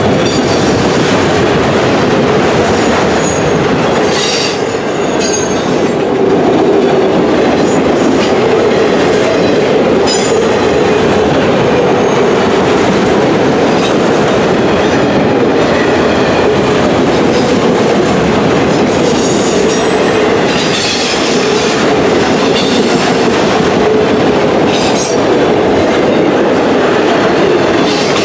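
Autorack freight cars of a CSX train rolling past at close range: a loud, steady rumble of steel wheels on the rails. Brief high-pitched wheel squeals cut in a few times.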